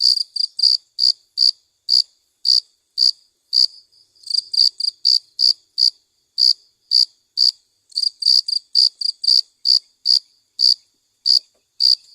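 Crickets chirping: short, high-pitched chirps repeating about twice a second, with a second cricket's chirps overlapping now and then.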